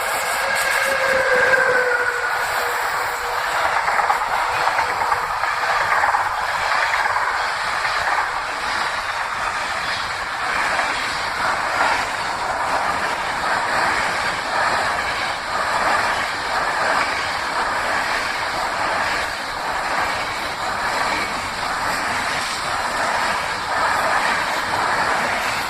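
Train passing through a station. The end of its horn sounds in the first two seconds and drops slightly in pitch, then the wheels and wagons clatter along the rails steadily.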